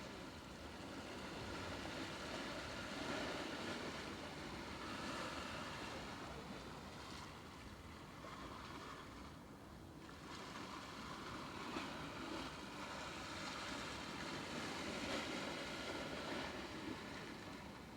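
Steady rushing of water with wind, swelling and easing every few seconds.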